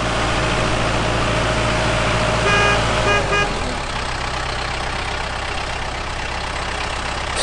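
Vehicle engine running steadily, with a horn tooting three short times about two and a half seconds in.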